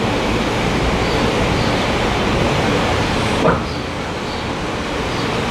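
Steady, even background rumble, with one brief short sound about three and a half seconds in.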